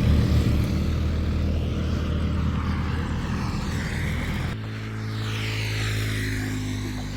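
An engine passing close by, loudest at the start and fading as it moves away. About four and a half seconds in, it changes abruptly to a steadier, quieter hum.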